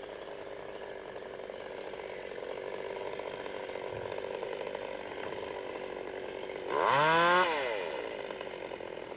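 Chainsaw engine running steadily, then revved up sharply about seven seconds in and falling back.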